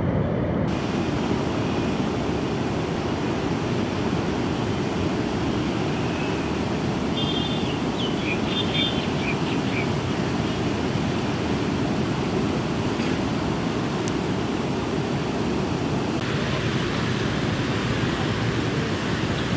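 Steady rushing of floodwater in the swollen Bagmati River, a constant low roar of churning water.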